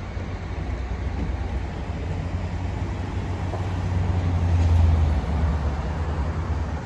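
Steady low rumble of a moving vehicle heard from on board, swelling a little about four to five seconds in.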